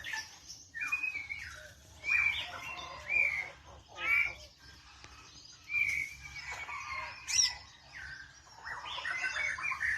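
White-rumped shama singing: varied clear whistled phrases, each a second or less, separated by short pauses, then a quick run of tumbling notes near the end.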